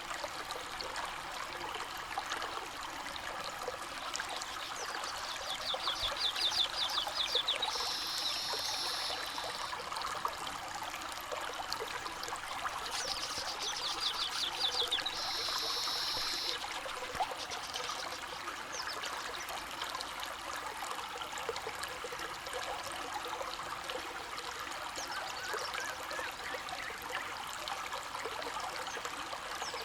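Shallow river water trickling and flowing steadily over stones. Twice, about seven seconds apart, a bird gives a high, rapid ticking trill that ends in a buzzy note.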